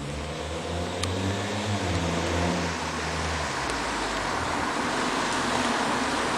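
Acura TSX's K24 2.4-litre four-cylinder running through an aftermarket Fujitsubo exhaust and high-flow catalytic converter while driving. A steady engine tone fades about halfway through, leaving rising road and wind noise.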